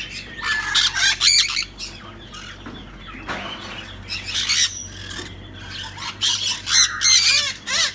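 Parrots giving repeated harsh squawks and screeches in short bursts, loudest about a second in and again near the end.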